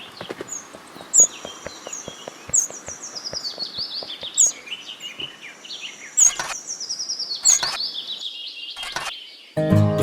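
Birds chirping: short high calls repeated every second or so, with a long run of notes falling slowly in pitch through the middle, over faint scattered clicks. Acoustic guitar music starts just before the end.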